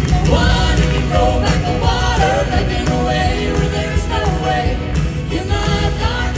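Live southern gospel vocal group singing with full instrumental accompaniment.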